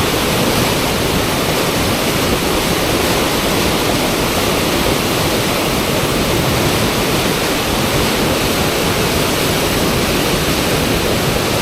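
Steady, loud rushing of fast river water pouring over a standing surf wave.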